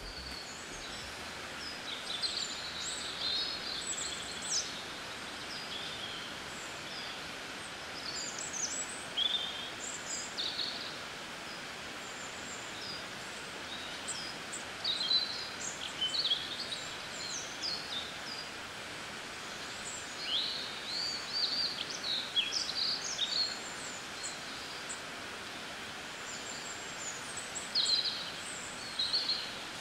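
Songbirds chirping and calling, many short high calls scattered throughout, over a steady hiss of outdoor ambience.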